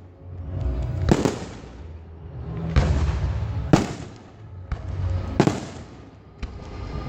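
Fireworks going off: three loud sharp bangs about a second or two apart, with smaller cracks and a low rumbling between them.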